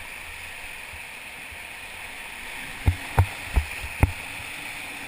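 Steady rush of whitewater rapids on the Ocoee River. About three seconds in come four sharp knocks, each a third to half a second apart.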